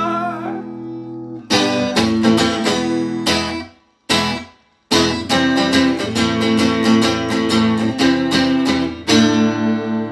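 Plugged-in guitar strumming chords in a steady rhythm between sung verses. It stops suddenly about three and a half seconds in, hits one short stab, falls silent for a moment, then picks the strumming back up. Near the end a final chord is left ringing.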